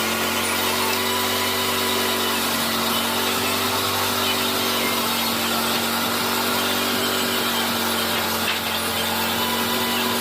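Electric woodworking power tool running steadily under load, cutting or shaping hardwood with a constant motor hum.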